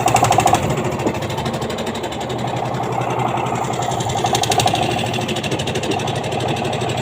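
Engine running steadily with a fast, even knocking beat, a little louder at the very start and again around four seconds in.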